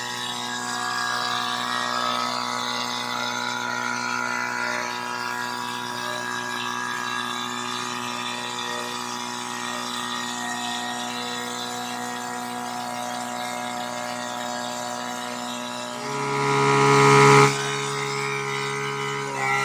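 Portable fire-fighting pump engine running steadily. Near the end its note shifts and it runs louder for about a second and a half, then carries on at the new speed.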